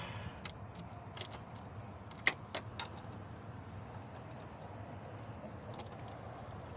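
A few sharp metallic clicks and clinks of hand tools and hose fittings being handled during engine-bay work, the loudest a little over two seconds in, over a steady low hum.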